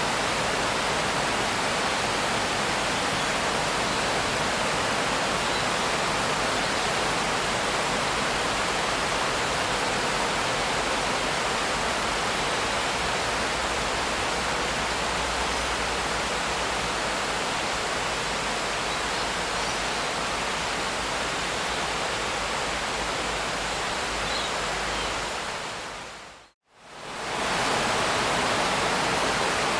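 Steady rain, an even hiss of noise, that fades out to a brief silence near the end and fades straight back in, like the seam of a looped recording.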